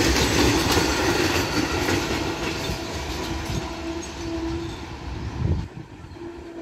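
Freight train of covered wagons rolling past, wheels clattering over the rail joints. The sound thins out as the last wagon and brake van go by and the train pulls away. A brief low thump about five and a half seconds in is followed by a sharp drop in level.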